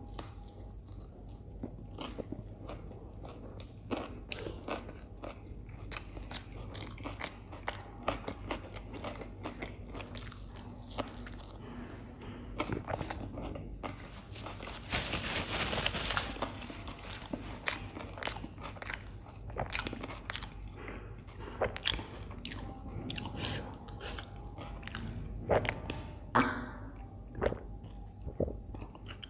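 Close-miked chewing of a toasted sandwich: many small crunches and wet mouth sounds from bites of the crisp grilled bread. A louder rushing noise lasts about a second and a half midway.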